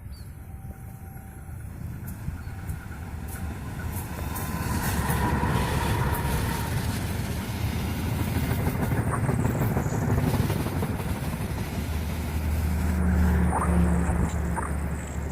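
Diesel-hauled train passing close by: a rumble that builds over the first few seconds and stays loud, with a low steady engine hum strongest near the end and a few clicks from the rails.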